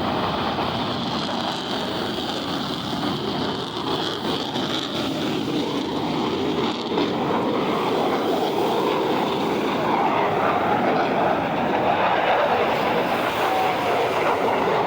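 Jet engine roar from Blue Angels F/A-18 Super Hornets flying past, a steady rushing noise that grows a little louder in the second half.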